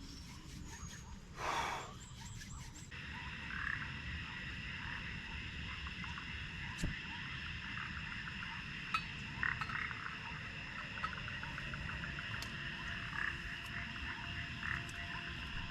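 Frogs croaking in short repeated calls over a steady high-pitched chorus. A low rumbling haze sits underneath, with occasional sharp clicks. There is a brief louder noise about a second and a half in.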